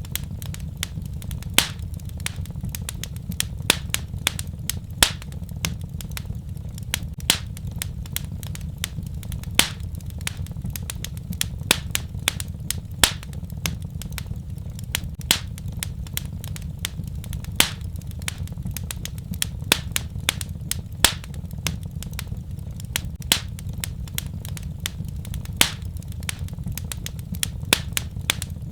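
Wood fire in a fireplace crackling: irregular sharp pops and snaps, several a second and some louder than others, over a steady low rumble of the flames.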